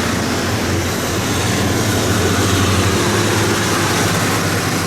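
Tractor engines running steadily as tractors pass, a low engine hum under dense mechanical noise.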